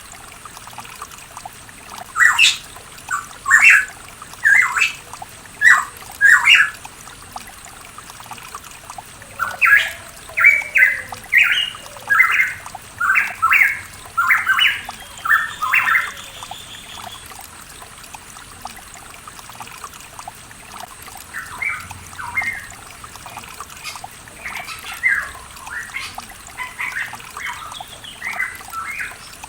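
Pitohui song: runs of short, loud, clipped notes, one group a couple of seconds in, a denser run from about ten seconds in, and fainter notes later. A steady trickle of running water lies underneath.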